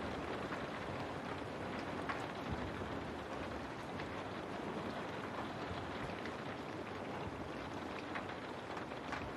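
Rain falling on a window: a steady, even hiss with scattered sharper drop hits.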